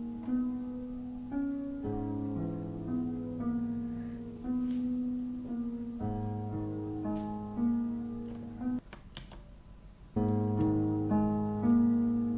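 A piano sample played back through a flanger effect, a slow line of sustained notes that breaks off briefly about three-quarters of the way through and then starts again.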